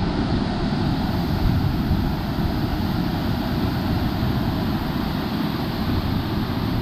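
Steady rushing roar of a waterfall, with wind from the falling water buffeting the microphone and filling in a heavy low rumble.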